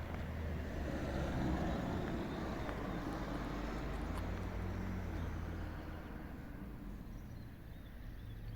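Steady low rumbling noise with no clear single source.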